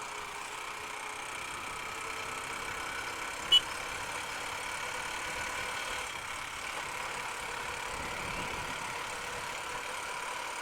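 Honda Unicorn motorcycle's single-cylinder engine running steadily on a downhill ride. A short, sharp high-pitched beep or click cuts in once about three and a half seconds in.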